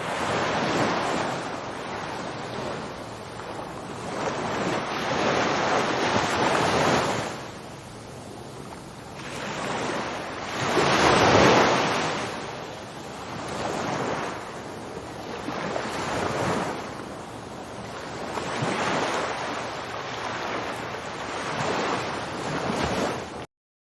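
A rushing noise that swells and fades in slow surges every few seconds, loudest near the middle.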